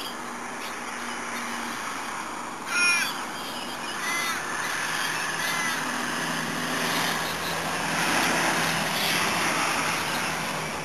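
A bird calls loudly once about three seconds in, followed by two fainter calls, over a steady background hiss.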